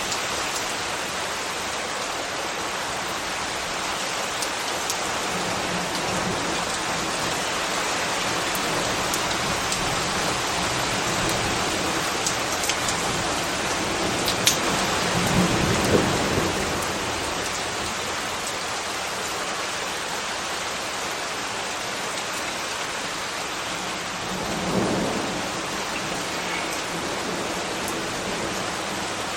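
Steady rain, an even hiss of falling drops, with a low rumble swelling up about halfway through and a shorter one near the end.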